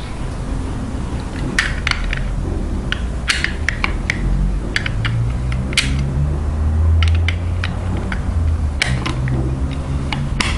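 Metal lock parts and tools being handled and set up: scattered sharp clicks and knocks over a low rumble.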